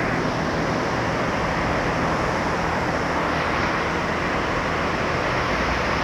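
D&S IQ touchless car wash in operation: a steady, even rush of water jets spraying in the wash bay.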